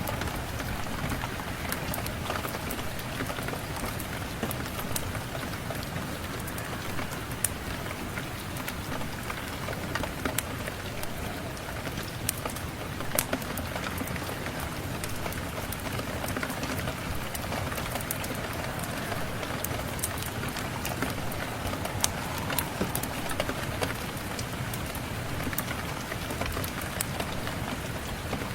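Steady rain mixed with a fireplace fire, with sharp crackles and pops standing out now and then.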